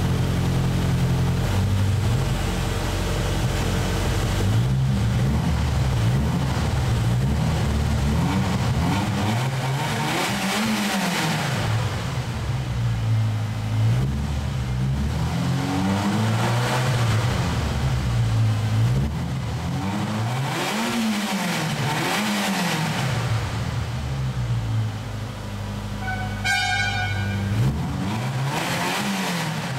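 Ferrari 308 Quattrovalvole's 2.9-litre DOHC V8, stationary and heard from behind at the exhaust, idling and revved in a series of blips, each rising and falling in pitch. A short high tone sounds briefly near the end.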